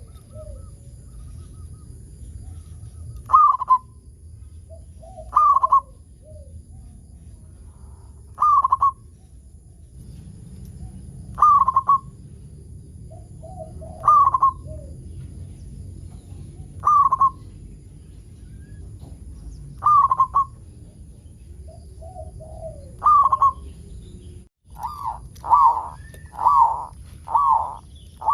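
Zebra dove (perkutut) cooing: a short, clear call repeated about every three seconds, several of them led by softer, lower notes. Near the end it quickens into a run of five calls in close succession.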